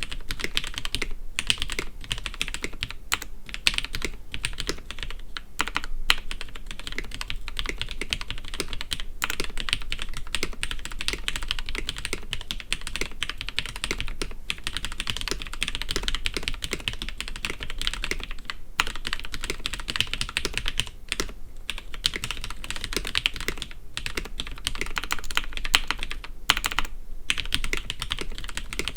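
Cooler Master Quickfire TK mechanical keyboard with broken-in Cherry MX Red linear switches and stock keycaps, typed on fast and continuously. The key clicks come in a dense stream, broken by a few short pauses.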